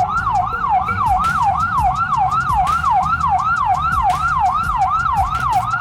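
Siren in a fast yelp, its pitch sweeping up and down about three times a second, over a steady low rumble.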